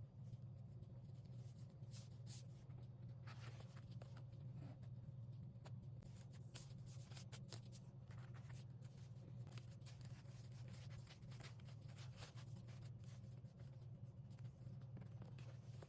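Faint, scattered scratching and light ticks of paper being handled and worked by hand, over a steady low hum.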